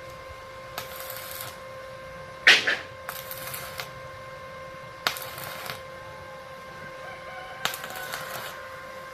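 Arc welding on metal tubes crackling in short bursts of under a second, four times, over a steady hum. A chicken calls once, briefly and loudly, about two and a half seconds in.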